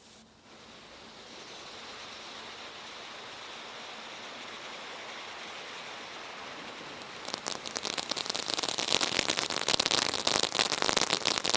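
A firework fountain (a "hive") spraying with a steady hiss that builds for several seconds. About seven seconds in, it breaks into loud, dense crackling as the silver and gold crackle effects go off.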